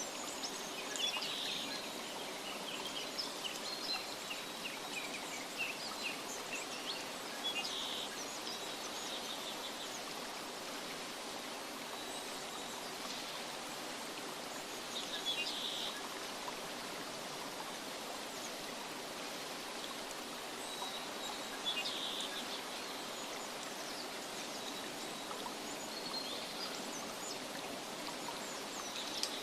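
Nature ambience of steadily running stream water, with short bird chirps breaking in every few seconds.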